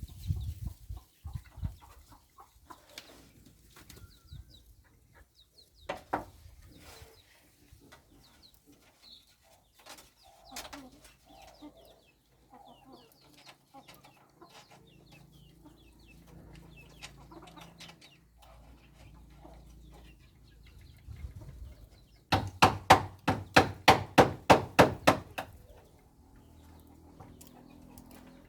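Chickens clucking now and then among small scattered knocks. Near the end comes a loud, rapid run of about fifteen sharp knocks over three seconds.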